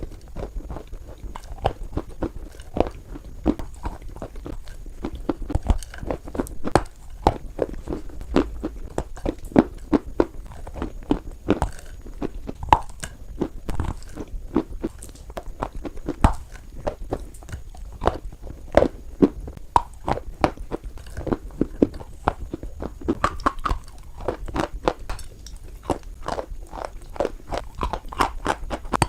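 White chalk being bitten and chewed close to the microphone: a dense, irregular run of sharp crunches and crackles throughout.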